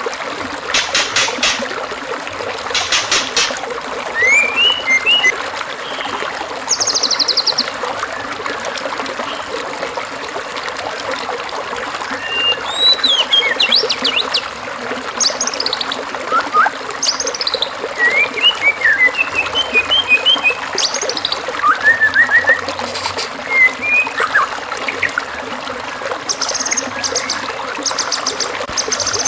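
Songbird song: a run of varied short chirps, whistled up- and down-sliding notes and a few fast rattling trills, over a steady trickling-water hiss. This is a masteran tutor recording of song phrases meant for a white-rumped shama to copy.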